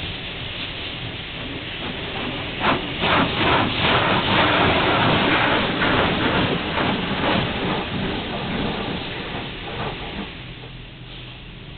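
Automatic car wash spraying water onto a car: a hissing, splashing rush of water that surges louder a few seconds in and then dies down near the end.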